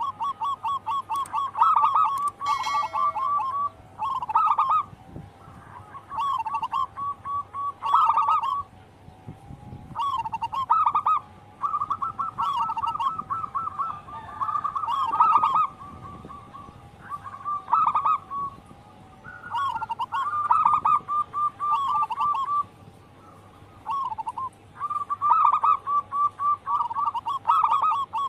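Zebra dove (perkutut) cooing: repeated phrases of rapid staccato notes, each phrase a second or two long with short pauses between.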